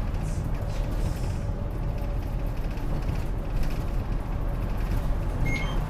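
City bus running, a steady low engine and road rumble. A short high beep sounds near the end.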